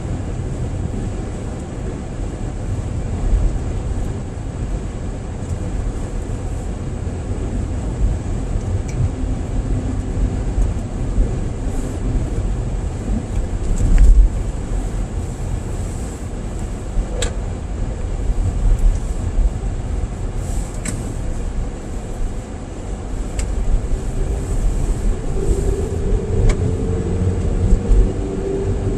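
A car driving on a cleared road, heard from inside the cabin: a steady low rumble of tyres and engine, with a few sharp clicks and a brief louder surge about halfway through.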